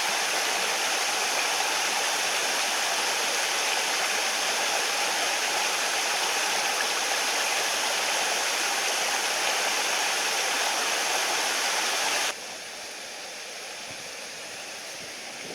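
Mountain stream water rushing steadily. About twelve seconds in it cuts abruptly to a quieter, duller water sound.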